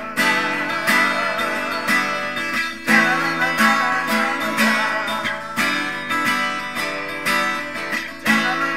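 Acoustic guitar strumming the chords of a slow ballad, a new stroke about once a second, with no voice over it.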